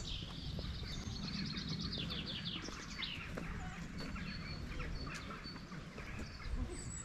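Songbirds chirping and singing, one giving a fast run of repeated high notes in the first few seconds, over a low steady background noise.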